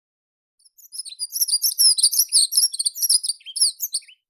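A songbird singing one rapid, high-pitched twittering phrase of quick, varied notes, lasting about three and a half seconds, starting about half a second in and stopping just before the end.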